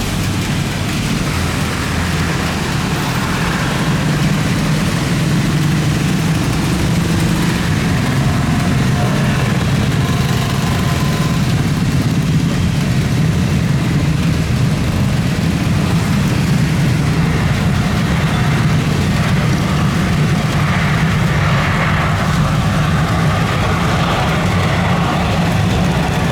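A steady, loud, low engine rumble, with a slight rise in higher-pitched noise near the end.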